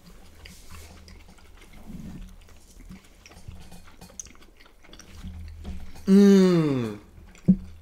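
Two people biting into and chewing juicy steamed dumplings, faint close-up mouth noises. About six seconds in, one lets out a loud drawn-out voiced sound falling in pitch, and a short click follows.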